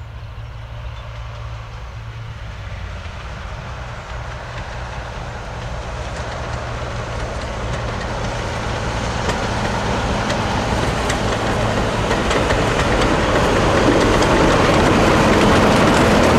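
A double-headed train, Class 45 diesel 45149 with GWR 28xx steam locomotive 2807, approaching and growing steadily louder over a steady low hum. Sharp clicks of wheels on rail joints come in during the second half as it draws near.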